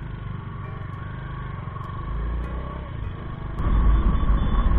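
Motorcycle riding along a road, its engine and road noise forming a steady rumble that grows sharply louder about three and a half seconds in.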